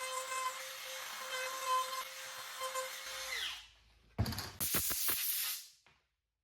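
Small high-speed electric power-tool motor running at a steady high pitch, then spinning down with a quickly falling whine about three and a half seconds in. This is followed by a loud hissing burst of about a second and a half that cuts off.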